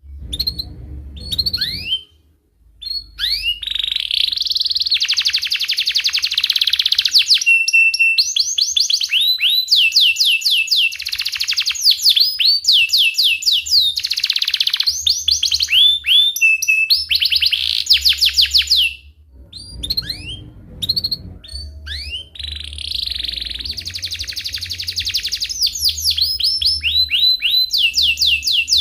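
A domestic canary singing a long, loud song of rapid rolling trills and chirps, with short pauses about two seconds in and again around twenty seconds in.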